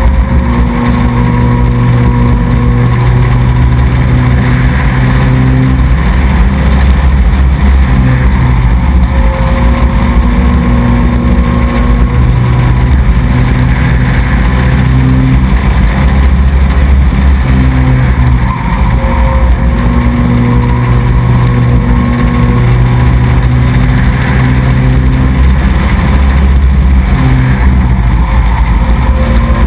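Race truck engine running hard and very loud throughout, its note dropping and rising again every few seconds as the driver lifts off and gets back on the throttle around the short oval.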